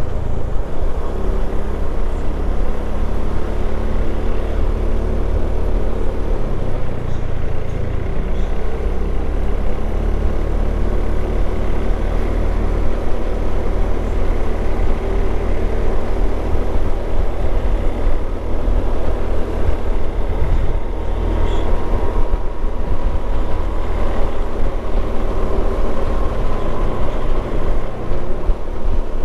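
Motorcycle engine running while riding, its pitch drifting up and down with speed, over a heavy low wind rumble on the microphone.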